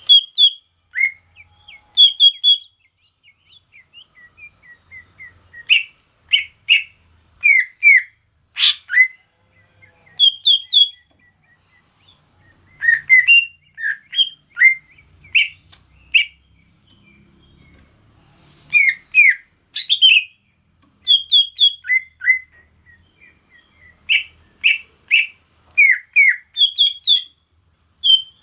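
Cucak ijo (greater green leafbird) singing: loud, clipped whistled notes and short bursts of phrases in clusters every few seconds, over a steady high hiss.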